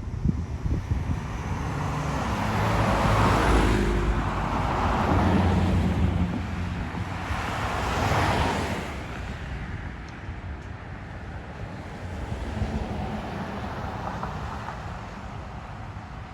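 Cars passing on the road: two whooshes that swell and fade, the first about three seconds in, the second about eight seconds in, over a low rumble of wind on the microphone.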